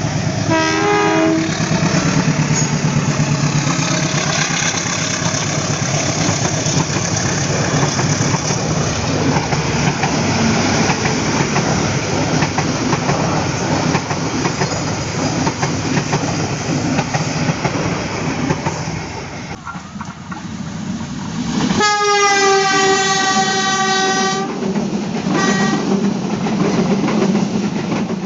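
Train passing close by, its wheels rumbling and clattering on the rails, with a short horn toot at the start. About 22 seconds in, a loud train horn sounds one steady blast of about two and a half seconds, followed by a brief second toot.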